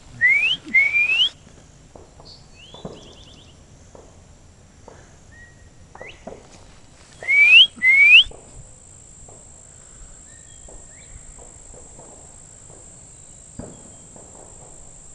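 Whistled call and answer with birds: clear rising two-part whistles, a loud pair about a second in and another pair about seven seconds in. Fainter whistles and a quick trill of short notes come in between, from farther off.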